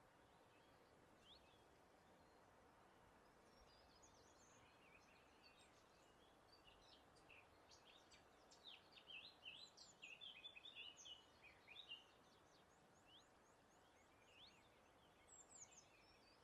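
Faint songbirds chirping and calling over a steady soft hiss of breeze. The calls are busiest in the middle, with a few more near the end.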